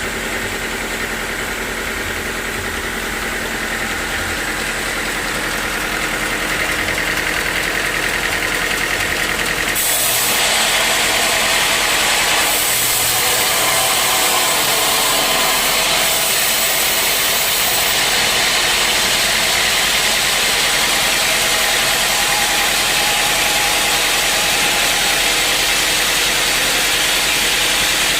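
Sawmill machinery running steadily. About ten seconds in, a louder hiss joins and holds, as of the saw cutting into a teak log.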